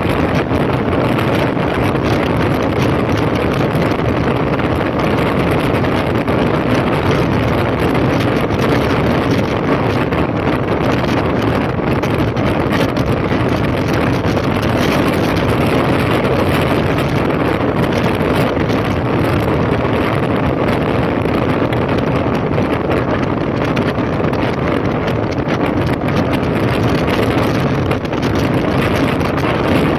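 2005 Honda CB1300's inline-four engine running under way, mixed with steady wind noise on the microphone.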